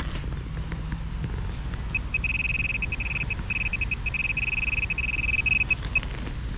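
Metal detector beeping rapidly in a steady high tone for about four seconds, starting and ending with a few separate short beeps: the signal of a metal target close under the coil. Wind rumbles on the microphone underneath.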